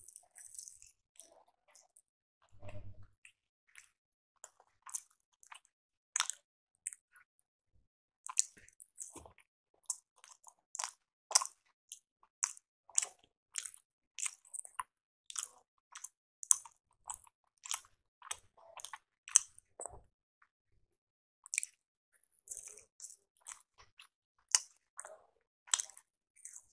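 Close-miked chewing of appe (South Indian rice paniyaram), a run of sharp, moist mouth clicks about two a second, pausing briefly near the end. A brief low thump comes about three seconds in.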